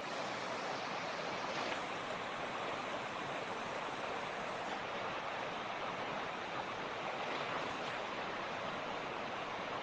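Mountain creek water rushing and splashing over stones in a steady, even rush.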